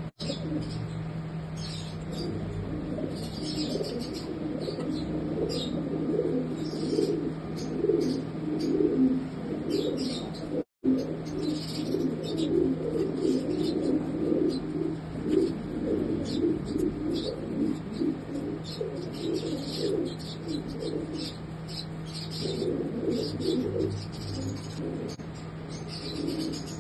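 Several pigeons cooing continuously in overlapping low warbles, with short high chirps scattered over them and a steady low hum underneath; the sound cuts out for a moment about ten seconds in.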